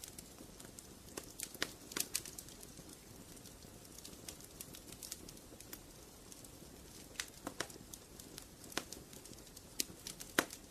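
Wood fire in a fireplace crackling: sharp pops and snaps scattered irregularly over a soft steady hiss, bunched about a second in, around the middle, and near the end.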